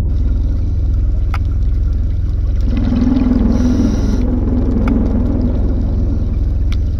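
Underwater ambience on a camera filming a reef: a steady, loud low rumble with a few sharp clicks, and a low hum that swells for about two seconds near the middle.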